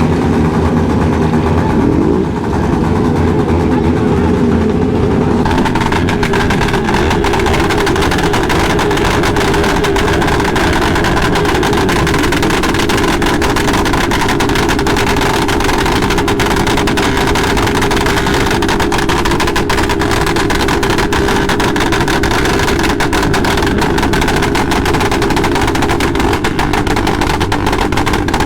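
Several motorcycle engines running and revving close by, with voices among them. The sound grows harsher and crackly about five seconds in.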